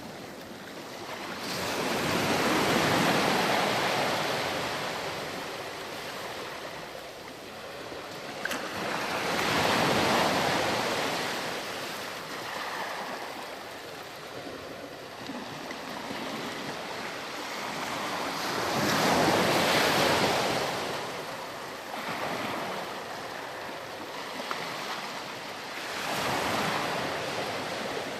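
Surf on a sandy beach: four waves surge in and wash back, each swell building and fading over several seconds, with a steady hiss of water between them.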